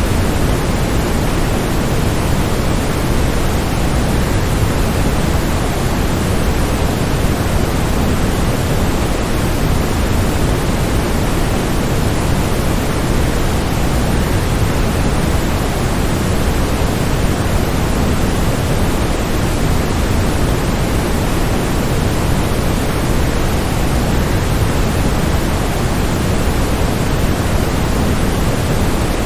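Waterfall: a steady, unchanging rush of falling water, heaviest in the low end, with no separate splashes or drops standing out.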